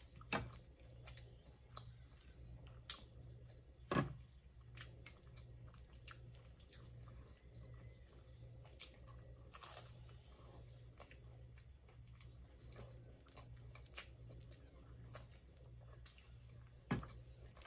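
Close-up mouth sounds of a person chewing and biting garlic naan dipped in butter chicken sauce: soft wet chewing with scattered small clicks, and a louder bite about four seconds in and again near the end. A low steady hum runs underneath.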